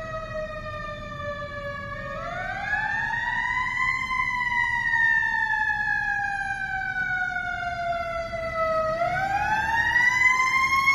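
Fire engine siren wailing: it winds up over about two seconds, slowly falls away, then rises again near the end, over the low rumble of the truck.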